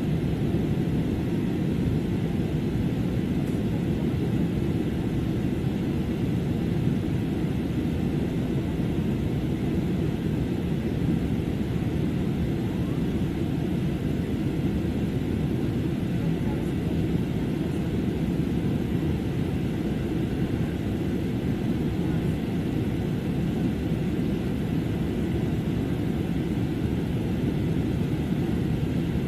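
Airliner cabin noise in flight: a steady low rumble of engine and airflow noise that holds an even level throughout.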